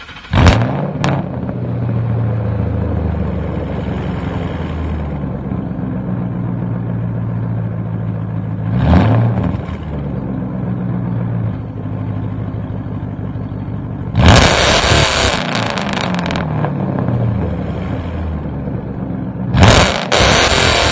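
Mercury Marauder's 4.6-litre DOHC V8, running through straight pipes (rear cats and rear muffler deleted, stock front cats and H-pipe), flares loudly as it catches, then idles with a deep grumph. It is blipped briefly about nine seconds in and revved harder twice near the end, settling back to idle each time.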